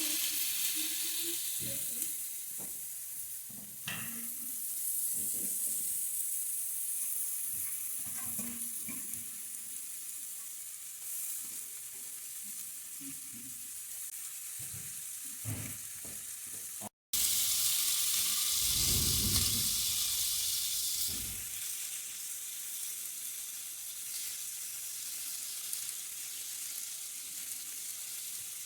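Entrecôte steak sizzling in a frying pan, a steady hiss with scattered light knocks. The sound drops out briefly just after halfway, then the sizzle comes back louder with a low rumble for a couple of seconds.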